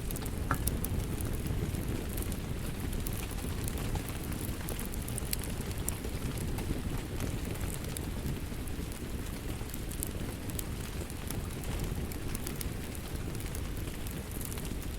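Wood fire crackling in a fireplace: a steady low rumble of flames with many small, irregular pops and snaps.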